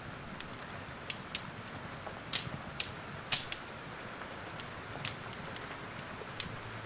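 Wood fire in a fireplace crackling, with irregular sharp pops, over a steady hiss of rain.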